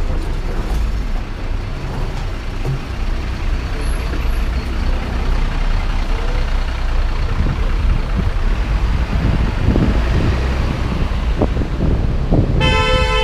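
City traffic: a steady rumble of motor vehicles with a heavy low drone. Near the end a vehicle horn sounds briefly.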